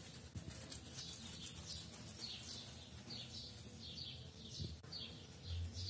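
Small birds chirping faintly in the background, a quick series of short, falling chirps.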